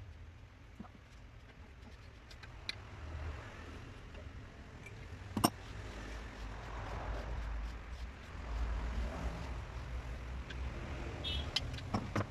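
Scattered small metallic clicks and clinks, typical of hand tools and engine parts being handled, with one sharper clink about five and a half seconds in, over a low rumble.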